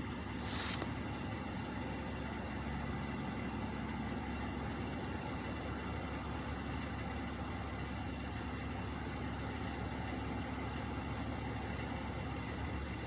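Trucks idling with a steady low engine drone. About half a second in comes one short, sharp hiss, the loudest sound here.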